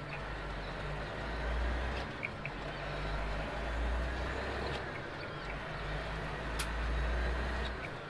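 Semi-truck diesel engine pulling away, a low rumble that eases off and comes back a few times, with a few faint clicks.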